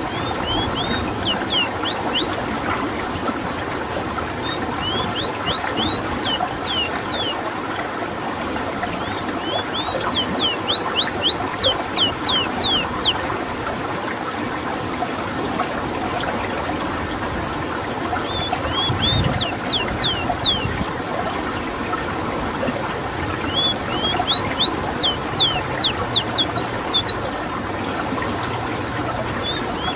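Ruddy-breasted seedeater (rowti, Sporophila minuta) singing: five phrases, about four or five seconds apart, each of a few short notes running into a quick series of sharply sliding whistles. The phrases sit over a steady rush of running water.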